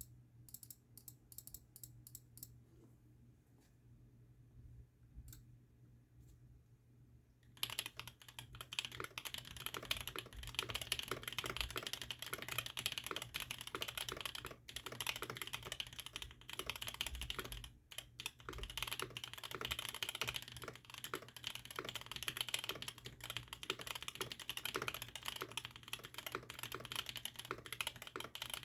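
Mode80 mechanical keyboard being typed on. It has an aluminum plate, lubed ThicThock Konpeitos long-pole switches and GMK keycaps. A few scattered keystrokes give way to fast continuous typing about eight seconds in, with a couple of brief pauses, over a faint steady low hum.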